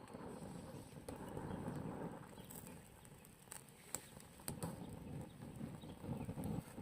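Campfire burning with a low, uneven rush and scattered sharp crackles and pops.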